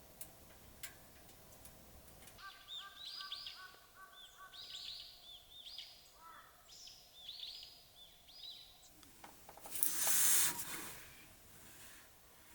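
A group of birds calling in a run of short, repeated calls. A loud, brief rush of noise comes near the end.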